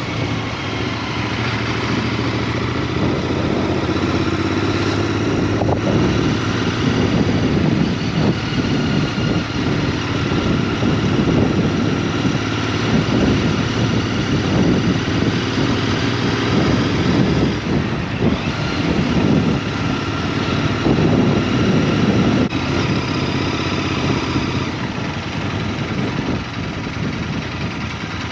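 Motorbike engine running steadily, its pitch shifting a little now and then, under a broad rushing noise.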